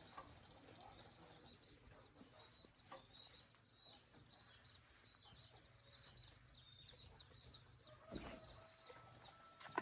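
Near silence with faint bird chirping in the background, and two sharp knocks near the end.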